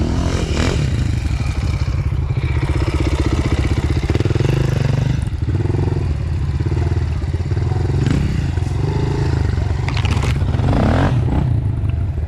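Dirt bike engine running on a trail ride, its revs rising and falling with the throttle, with the bike clattering over the rough trail.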